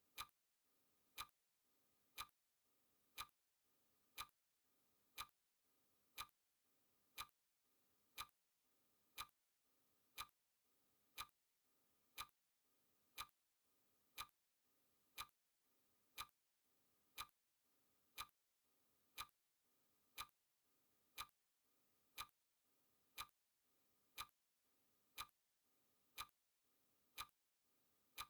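Faint, even ticking of a countdown timer's clock-tick sound effect: one sharp tick each second.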